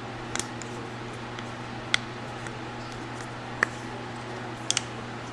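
A few sharp, light clicks, some single and some in quick pairs, from parts of a fuel pump assembly being handled and fitted together, over a steady low hum.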